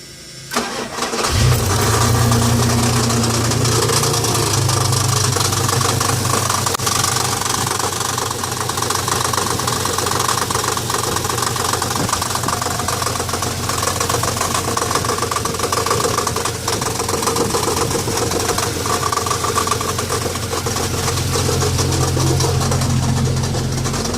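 1990 Dodge Dakota's 3.9-litre V6 cranking and catching about a second in, then idling steadily with a persistent knocking noise. The knock is constant in park and neutral and has not been cured by a new starter; the owner cannot tell whether it comes from the front or the back of the engine.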